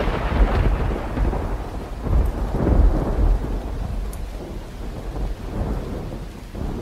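Rolling thunder rumbling over steady rain, swelling again a few seconds in and then slowly dying away.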